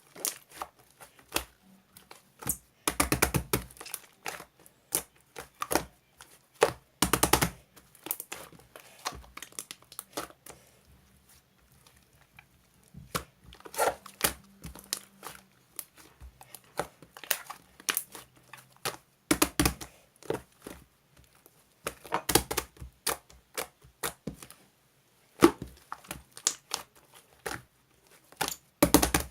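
Irregular crinkling, tearing and tapping of something being handled close by, in uneven clusters with short pauses. The loudest crackly bursts come about three and seven seconds in.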